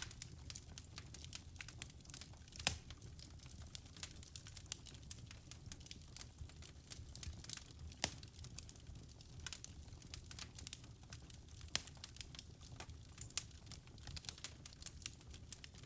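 Wood fire burning in a fireplace: constant fine crackling over a low rumble, with a few louder pops, one about three seconds in and one near twelve seconds.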